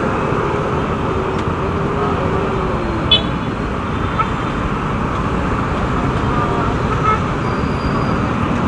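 Steady road and traffic noise while riding through traffic, with a short, sharp high-pitched beep about three seconds in.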